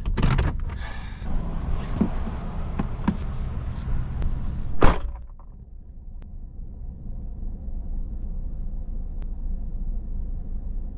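Pickup truck door slamming shut about five seconds in, after a couple of lighter knocks; once it is shut the outside noise gives way to a low steady hum.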